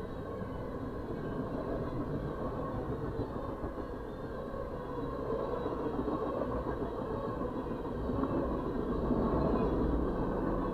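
Freight train rolling past: a steady rumble of steel wheels on the rails, muffled as heard from inside a stopped vehicle, growing a little louder near the end.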